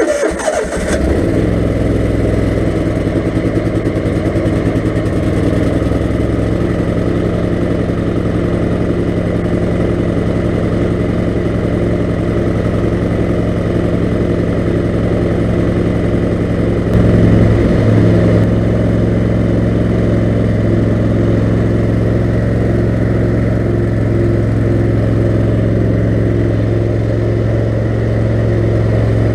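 Kohler 18 HP Command engine of a lawn mower catching from a cold start and settling into a steady idle. About 17 seconds in it briefly gets louder and shifts in pitch, then goes back to a steady idle.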